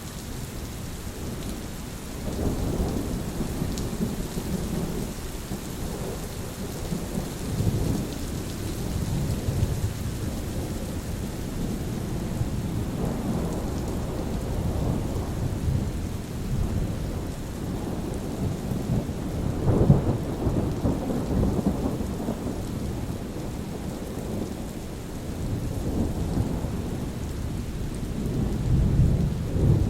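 Steady rain with thunder rumbling low, swelling and fading several times, loudest about twenty seconds in and again near the end.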